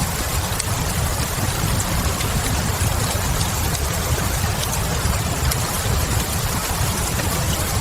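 Steady rain hiss over a deep low rumble, with small wood-fire crackles scattered through it.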